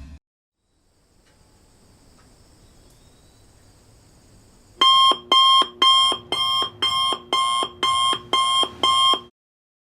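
Electronic alarm beeping: about ten short, pitched beeps at roughly two per second, starting about halfway through and stopping suddenly, after a few seconds of faint hiss.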